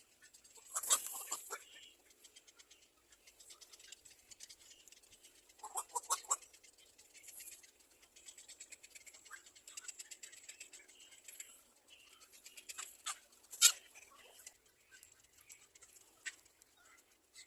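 Small birds at a nest: short bursts of chirping about a second in, around six seconds and near fourteen seconds, over a steady patter of small clicks and scratches.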